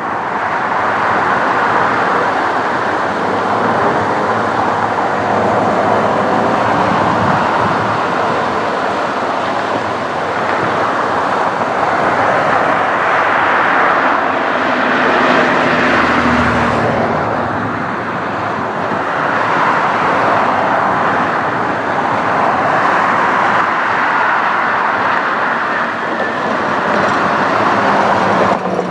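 Boeing 737-700 with CFM56-7B turbofan engines, a loud steady jet roar that swells and eases a few times, with a faint engine whine under it.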